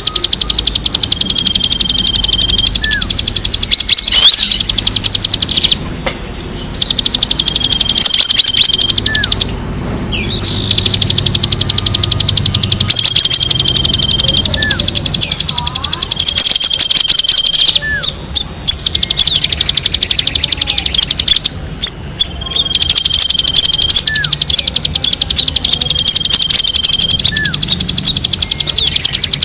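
Recorded birdsong played as a lure track: a loud, very rapid high-pitched trill that runs on for several seconds at a time, breaking off briefly about six times, mixed with short flat whistled notes and quick rising whistles.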